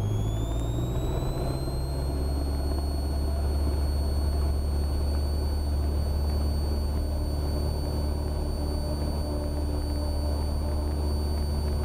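Cessna 172R's Lycoming IO-360 engine at full power for the takeoff roll of a touch-and-go: a steady low drone, with a high whine that rises in pitch over the first two seconds as the engine comes up to speed, then holds steady.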